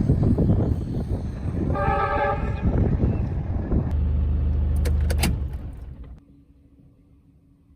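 Train rumbling along the track, with a locomotive horn sounding once for about a second roughly two seconds in; the rumble then fades away about six seconds in.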